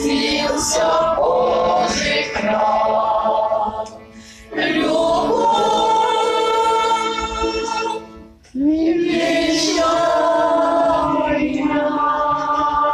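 A choir singing in long held chords, with two brief breaths between phrases, about four and eight seconds in.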